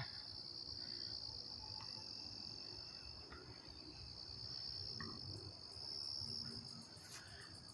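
Steady, high-pitched insect chorus, faint and continuous.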